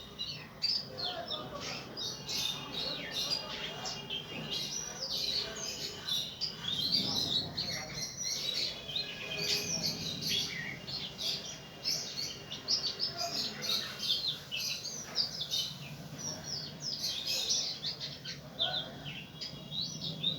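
Birds chirping: a dense run of short, high chirps and tweets, one after another without a break.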